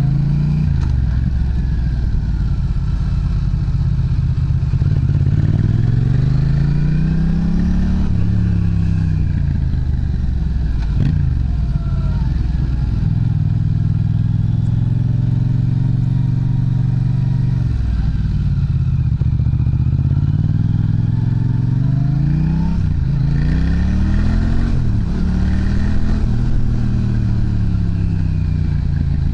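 Yamaha MT-07's parallel-twin engine through an aftermarket muffler, its exhaust note rising and falling over several seconds at a time as the revs climb and drop, with a steadier stretch in the middle.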